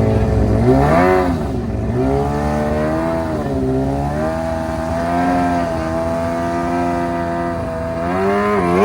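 Car engine revving: a quick rev about a second in, then held at a steady raised speed for several seconds, revving up and dropping again near the end.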